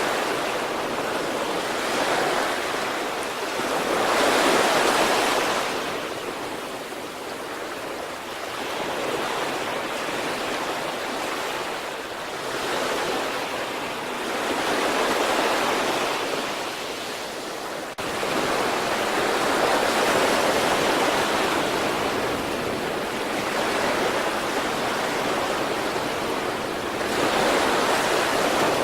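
Sea waves breaking and washing on the shore, a steady rush of surf that swells and ebbs every four to five seconds.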